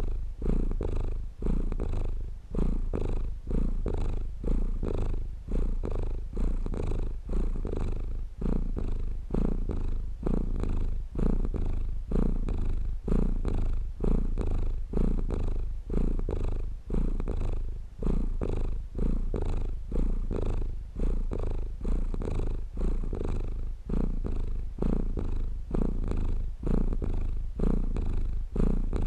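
Domestic cat purring, a low, continuous purr that pulses evenly with each breath in and out, a little under two pulses a second.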